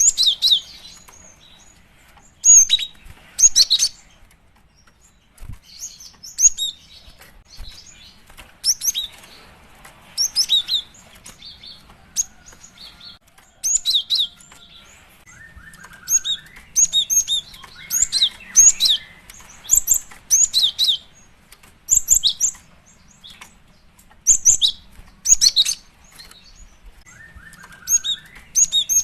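Female cinereous tit calling: quick clusters of short, high chirps, repeated every second or two, with a few lower sliding notes now and then.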